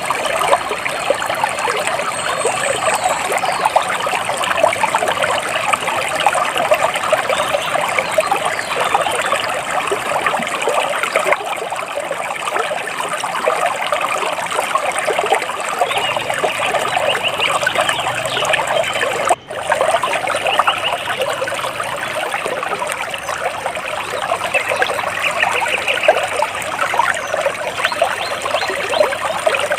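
Water trickling and splashing steadily in a small stream, cut off for a split second about two-thirds of the way through.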